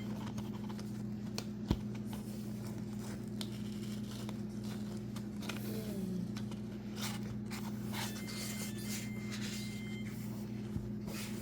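Allen key working a screw out of a dishwasher's bottom panel: scattered scrapes and clicks, with a sharp click about two seconds in, over a steady low hum.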